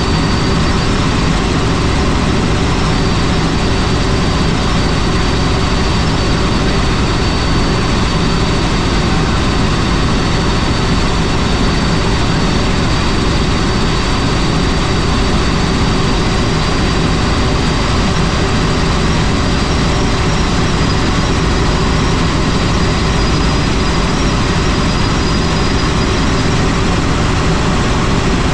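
Helicopter in flight: loud, steady rotor and turbine noise with a faint high whine over it.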